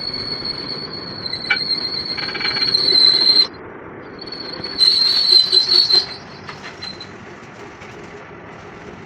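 Power tool working steel with a loud, high, steady squeal. It breaks off briefly about three and a half seconds in, starts again and stops about seven seconds in, leaving a lower running hum.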